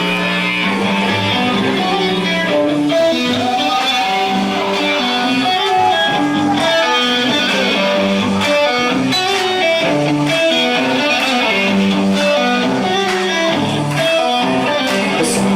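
Live band playing an instrumental intro led by electric guitar, with held notes changing in a steady pattern and a bass line underneath.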